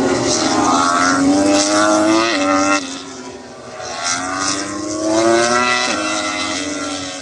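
MotoGP race motorcycles accelerating hard out of a corner, engine revs climbing and dropping sharply at upshifts about two and a half seconds and near six seconds in. The sound fades about three seconds in, then builds again as the revs climb.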